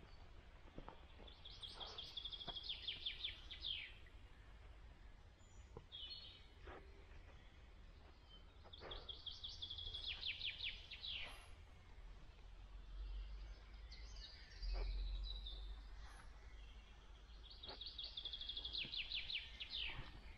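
A songbird singing the same short phrase three times, about seven seconds apart: a quick run of repeated notes that drops in pitch at the end. Faint footsteps and a low rumble sit underneath.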